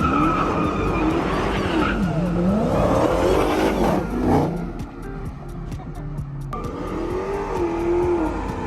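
Car engine revving hard, its pitch rising and falling, with tires squealing through the loudest stretch in the first half. A second rev comes near the end.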